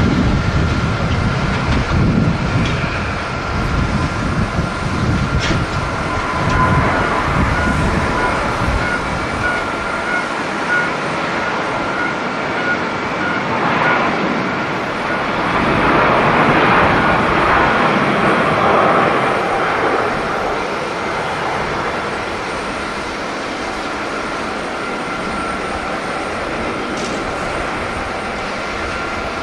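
Jet airliner noise: a steady high whine throughout, with a low, gusting rumble in the first third, then a broad rush of jet noise that swells about halfway through and fades away.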